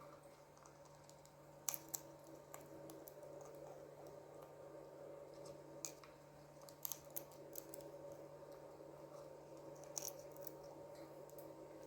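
Faint, scattered sharp clicks and cracks in small clusters, typical of an African grey parrot's beak working on food, over a steady low electrical hum.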